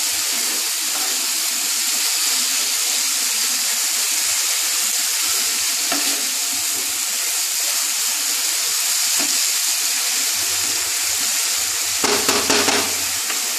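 Grated bottle gourd frying dry in a non-stick kadai with a steady sizzle, its cooking water already dried off, while a wooden spatula stirs and scrapes through it. The stirring grows louder for about a second near the end.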